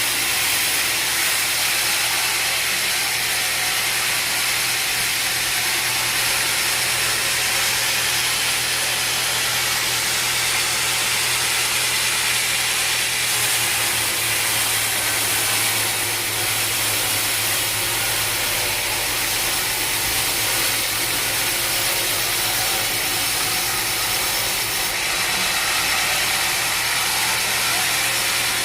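Sawmill machinery running steadily: a constant low hum under a loud, even hiss.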